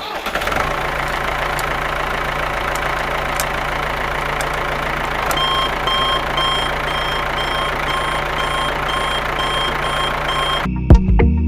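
A truck engine running steadily with a low hum. About five seconds in a reversing alarm joins it, beeping about two and a half times a second. Both cut off suddenly near the end.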